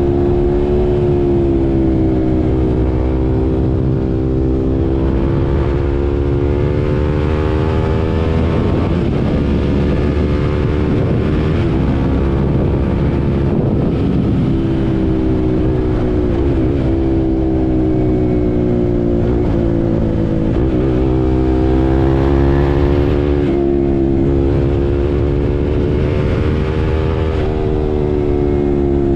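KTM RC 390's single-cylinder engine running under way at fairly steady revs, the pitch drifting gently up and down, with wind rushing over the microphone.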